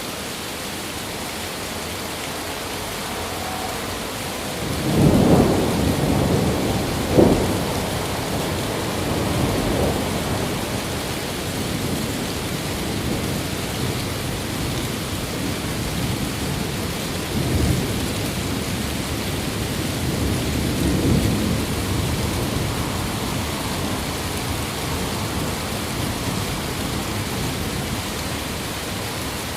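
Steady rain with rolling thunder: a rumble swells about five seconds in with two sharp peals close together, then more rolls of thunder follow around the middle and die away near the end.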